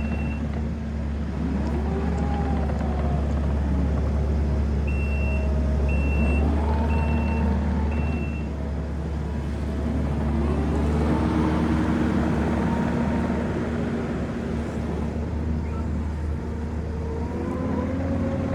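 Kubota SVL65-2 track skid steer running under operation, its engine and hydraulics rising and falling in pitch as it works. A reversing alarm beeps about four times, a third of the way in.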